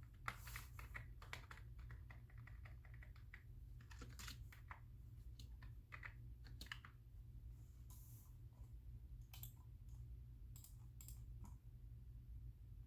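Faint typing on a computer keyboard: a fast run of keystrokes over the first few seconds, then slower, scattered key clicks, over a low steady hum.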